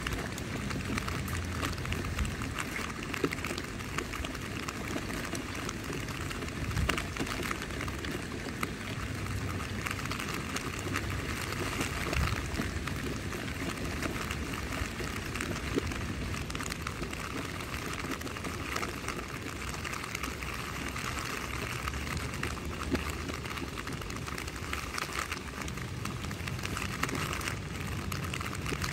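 Rain falling on a tent's fabric in a steady patter, with a few louder single drops standing out here and there.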